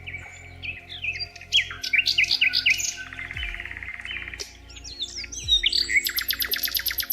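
Several songbirds chirping and whistling together in a dense chorus of short notes, with a fast trill about halfway through and another rapid, buzzy trill near the end.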